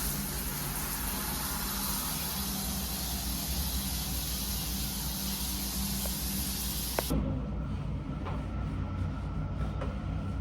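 Truck stop shower water spraying in a steady hiss, cut off suddenly about seven seconds in as it is turned off, leaving a steady low hum.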